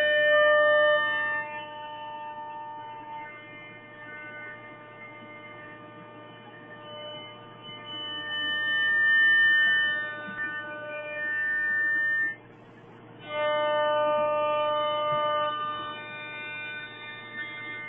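Yimming 1325C CNC router running: a steady electrical hum under whining stepper-motor tones that hold a pitch, then jump to new pitches and stop and start as the axes move.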